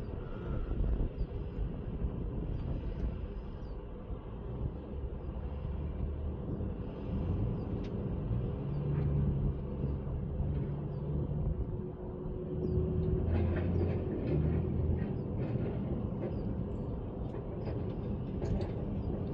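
A steady low mechanical rumble runs throughout, and in the second half light metallic clicks and taps of hand tools on a hydraulic line fitting being refitted.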